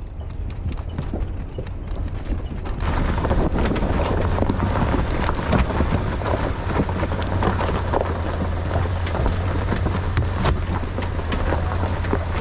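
Pickup truck driving slowly over a rough gravel and rock trail: a steady low drone under dense crunching and crackling from the tyres on stones. The crunching gets louder about three seconds in.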